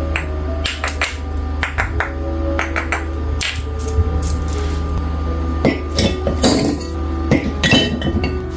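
Kitchen clatter of sharp knocks and clinks, irregular and busiest near the end, over steady background music.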